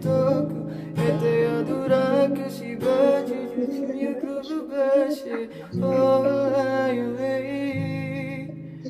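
A man singing a Russian pop song to his own strummed acoustic guitar, the chords struck about once a second, with a short stretch of held, wavering singing over lighter playing in the middle.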